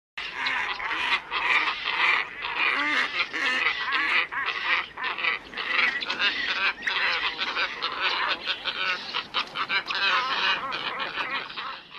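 A flock of black ibises calling: many harsh, overlapping calls packed closely together, as played from a bird-lure recording. The sound starts abruptly out of silence just after the beginning and cuts off at the very end.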